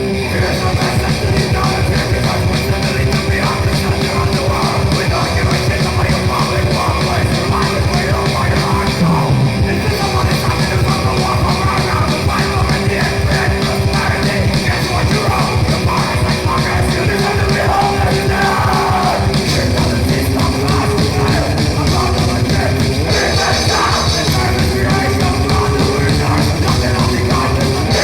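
Raw, noisy grindcore: fast pounding drums under distorted guitar and bass, with yelled vocals.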